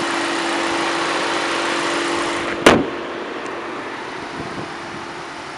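2009 Volkswagen CC's 2.0-litre turbocharged four-cylinder idling with a steady hum. About halfway through, the hood is slammed shut with one loud bang, and after that the engine is quieter.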